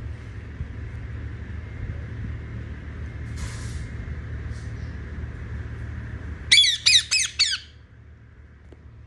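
Indian ringneck parrot giving four loud, harsh squawks in quick succession about two-thirds of the way in, over a steady low rumble that stops as the calls begin.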